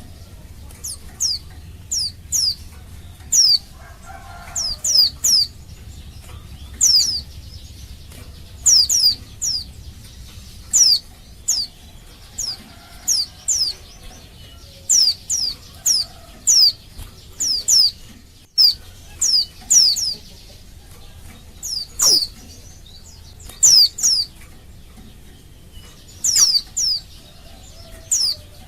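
Female white-eye (pleci) calling: short, high, downward-sweeping chirps, mostly in twos and threes, repeated about every second. It is a female's call to males.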